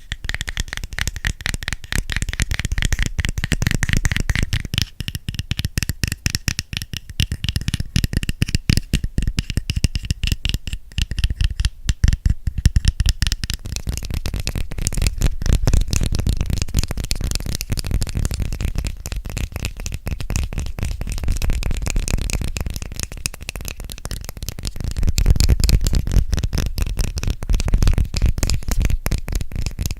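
Fast, dense finger and nail tapping on a hard object close to the microphone, a rapid unbroken stream of sharp taps.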